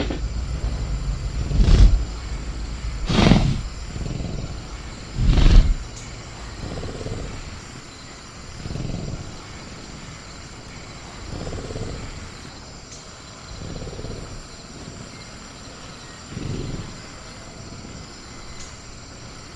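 Created velociraptor sound effect growling: three loud growls in the first six seconds, then softer low growls about every two and a half seconds.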